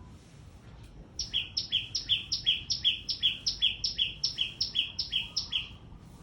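Small bird calling loudly: a quick two-note phrase, a high note then a lower one, repeated about a dozen times in a fast, even series that starts about a second in and stops near the end.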